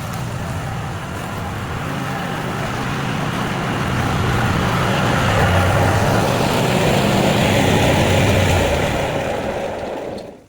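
Small petrol engine of yard-care equipment running steadily, growing louder over the middle of the stretch, then cutting off abruptly near the end.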